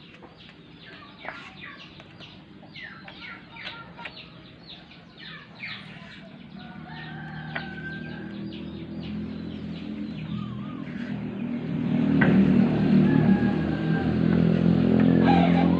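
Chickens clucking, then a motor vehicle's engine hum building up from about six seconds in and loudest over the last few seconds.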